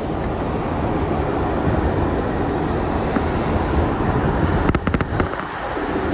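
Kawasaki R62 subway car running along the line: a steady rumble, with a quick run of sharp clicks just under five seconds in.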